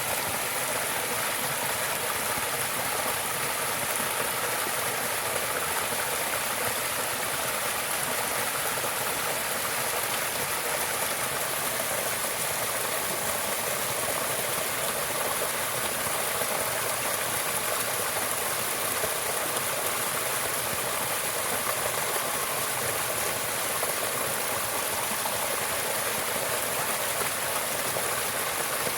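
Flowing stream water, a steady, even rush of running water.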